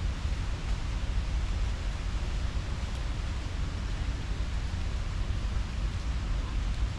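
Wind buffeting the microphone: a steady, fluttering low rumble under an even hiss.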